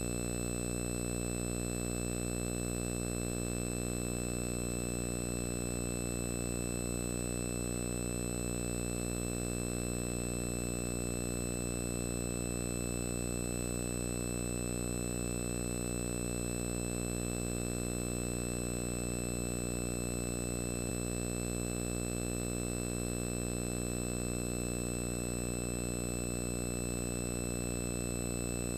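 A steady, unchanging hum with many overtones and a thin high whine over it.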